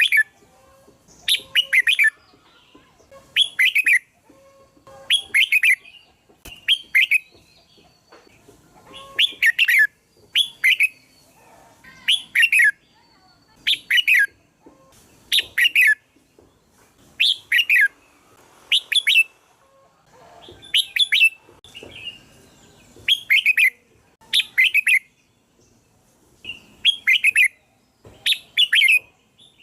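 Red-whiskered bulbul singing: short, bright, warbling phrases repeated over and over, about one every one and a half to two seconds.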